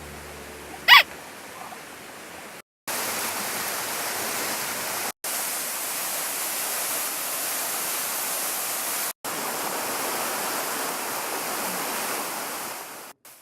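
Steady rushing water noise in several short clips joined with abrupt cuts, with a brief loud high-pitched cry about a second in.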